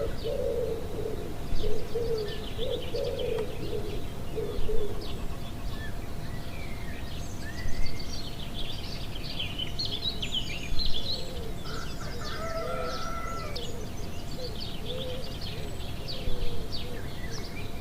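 Outdoor birdsong: many small birds chirping and twittering high, with some lower, wavering calls at the start and again later, over a steady low rush of noise broken by several brief louder bursts.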